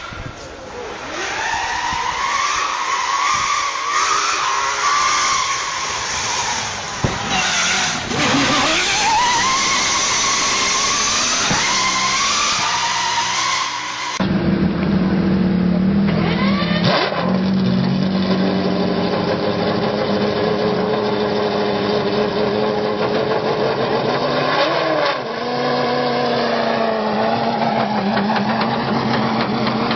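V16 car engine revving, its pitch rising and falling repeatedly. About 14 seconds in it cuts to a second recording with a steadier engine note that swells in pitch a few times.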